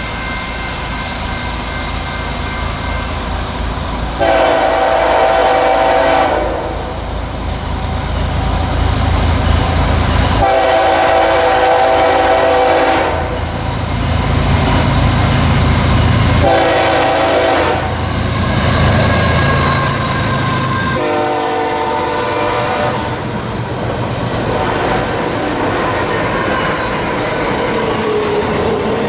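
Locomotive air horn sounding four blasts in a long, long, short, long pattern: the standard grade-crossing signal. Under it run a low engine rumble and the noise of the train on the rails.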